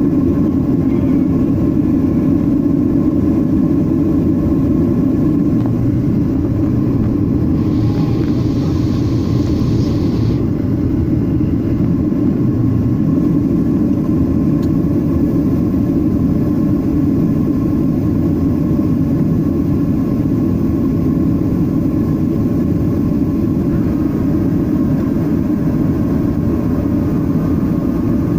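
Steady jet noise of a Boeing 737-800 in flight, its CFM56-7B engines and the airflow making an even, loud rumble. A brief hiss joins it about eight seconds in and lasts some three seconds.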